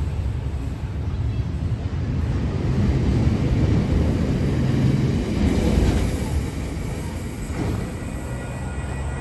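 A train passing, a low rumble that swells to its loudest around the middle and then eases off.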